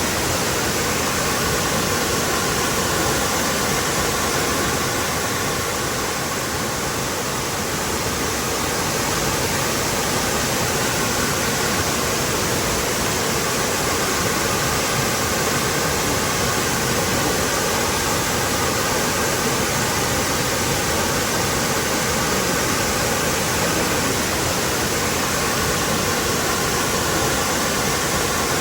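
Waterfall pouring, a steady, dense rush of falling water.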